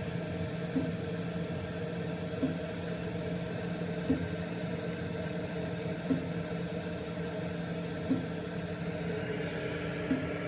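Chinese diesel air heater's blower fan running steadily in its shutdown cool-down cycle, fuel cut off, with a light regular tick about every two seconds.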